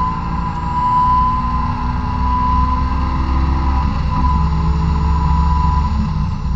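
Honda S2000's four-cylinder VTEC engine at full throttle high in the rev range, around 6,500–7,000 rpm, heard from inside the cabin through a 63 mm test pipe and Fujisubo Power Getter exhaust. The note breaks briefly about four seconds in, then carries on at high revs.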